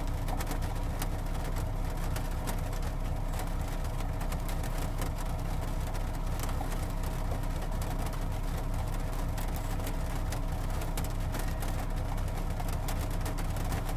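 Engine idling: a steady, low, rhythmic rumble with a faint steady hum over it.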